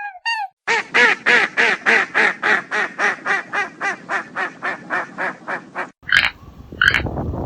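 An animal's rapid run of repeated pitched calls, about four a second and slowly fading, cut off abruptly about six seconds in by a different animal's sharper, widely spaced calls.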